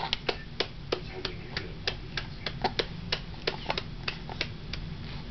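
Hands clapping, a steady run of sharp claps at about three a second, slightly uneven.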